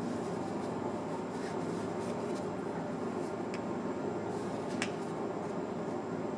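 Steady low road and running noise heard inside a moving Nissan Moco's cabin, with a few faint clicks.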